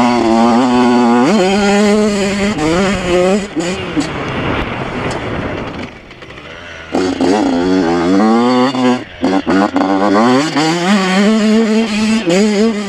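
Yamaha YZ85 two-stroke motocross engine revving hard and shifting, its pitch climbing and dropping again and again as it goes through the gears, with a lull about halfway through when the throttle is shut.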